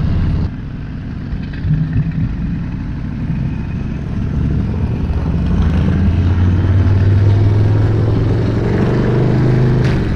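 Motorcycle engine running steadily while riding, with wind and road noise; the low drone grows stronger about six seconds in.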